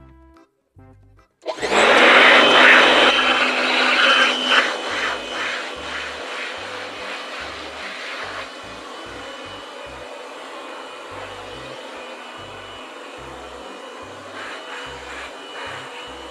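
Handheld electric air blower switched on about a second and a half in and running with a loud steady whoosh. It is loudest for the first few seconds and settles to a steadier, lower level after about eight seconds.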